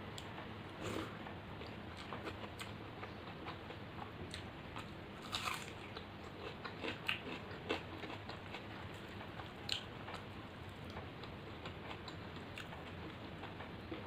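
A person eating rice and fish curry close to the microphone: chewing with scattered wet clicks and lip smacks, a few louder ones through the middle, over a steady low hiss.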